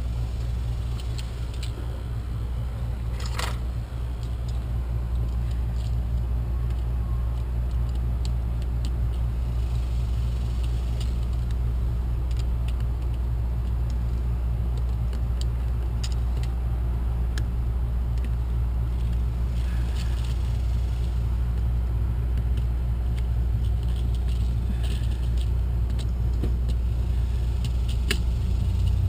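A steady low rumble throughout, with scattered light clicks and taps from hand tools and wire being worked, one sharper click a few seconds in.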